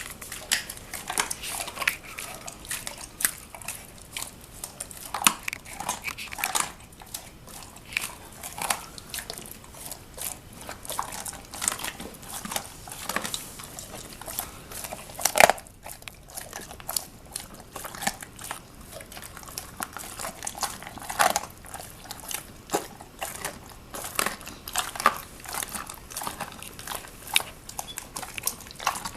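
Presa Canario chewing a raw chicken leg quarter, the bone cracking under her bite in irregular crunches, with one louder crunch about halfway through.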